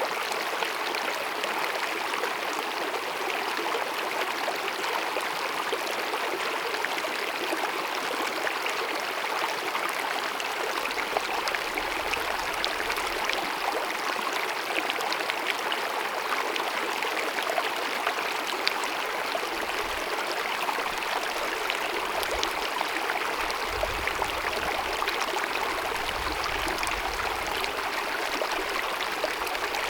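Small mountain meadow stream babbling and splashing steadily over rocks.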